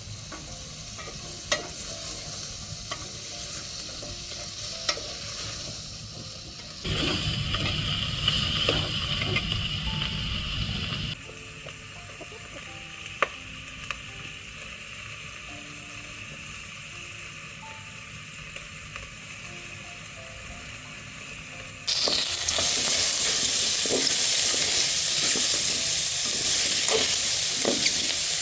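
Food sizzling and frying in a pan while it is stirred, with scattered light clicks of a utensil against the pan. The sizzle jumps in level abruptly a few times and is loudest and hissiest near the end.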